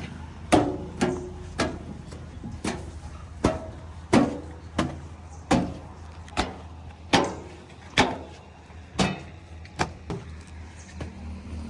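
A series of about fifteen sharp knocks, roughly one every half second to second, each with a short ringing tail, over a steady low engine hum.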